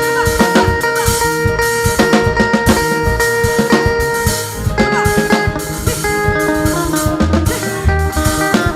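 Live gospel band playing an instrumental passage: guitar over a steady drum-kit beat with bass drum.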